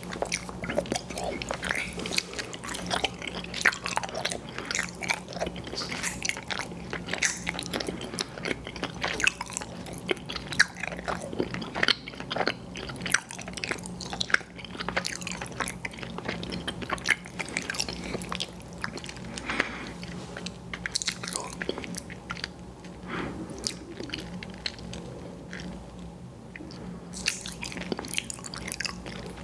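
Close-miked chewing of soft, chewy sweets: a dense run of wet smacks and clicks from biting and chewing, thinning out for a few seconds late on.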